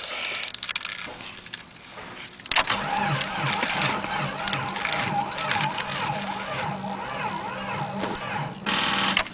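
1989 Jeep Cherokee's engine cranking slowly on the starter without catching, with an even pulse about three times a second from about two and a half seconds in until it stops suddenly near the end. The slow crank is the sign of a weak battery, too low to turn the engine over fast enough to fire.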